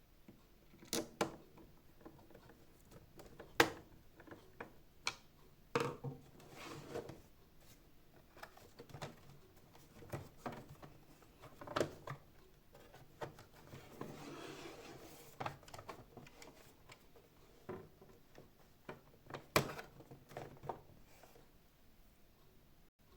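Irregular clicks, taps and knocks of plastic vacuum-cleaner parts and small tools being handled, during disassembly of a Xiaomi Mijia 1C robot vacuum, with a longer scraping rustle about two-thirds of the way through.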